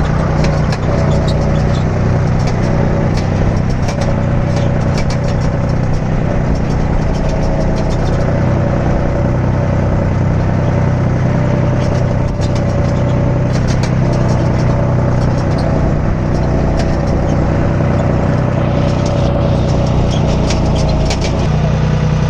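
Backhoe loader's diesel engine running steadily with a wavering whine over it, and frequent sharp clanks and knocks from the digging and loading of mud and boulders.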